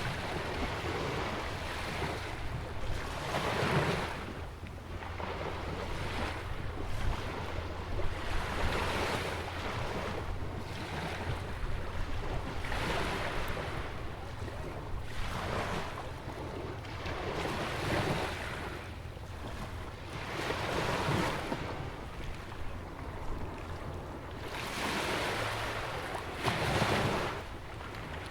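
Small ocean waves breaking and washing in along a jetty, a rush of surf every two to three seconds, over a steady low wind rumble on the microphone.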